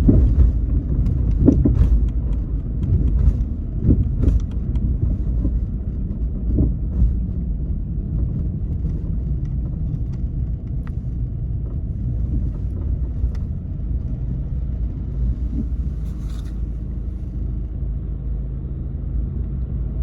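Car driving through city streets: a steady low rumble of engine and road noise, with several sharp knocks and bumps in the first few seconds, then smoother running.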